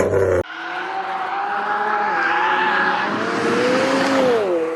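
Race car engine at high revs as the car approaches and passes, with tyre noise swelling; its pitch drops sharply near the end. The sound starts abruptly about half a second in.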